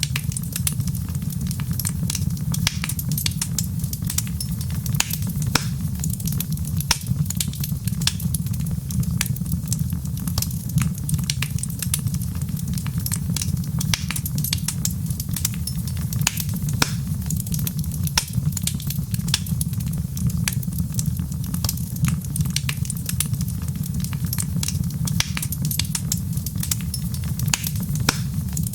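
Wood fire crackling: frequent small, sharp pops and snaps over a steady low rumble.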